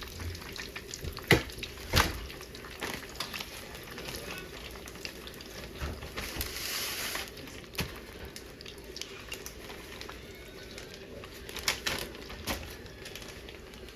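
Chicken pieces frying in hot oil, a steady sizzle with a brief louder swell of hiss about halfway through, and a few sharp knocks of utensils or pan.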